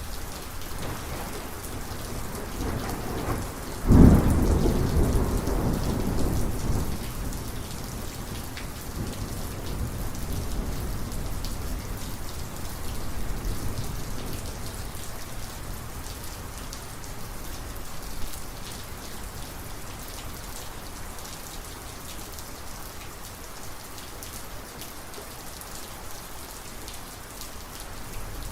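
Thunderstorm: rain falls steadily while a sudden loud clap of thunder breaks about four seconds in and rumbles away over the next few seconds, followed later by fainter rolling rumbles.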